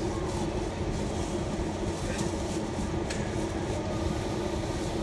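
Steady low rumble of engine and road noise inside a shuttle van, with an even hum and a few faint ticks.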